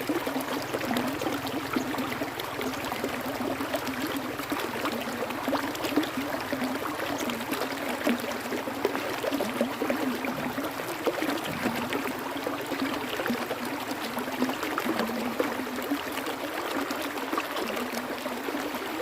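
Flowing water running steadily, with many small splashes and gurgles.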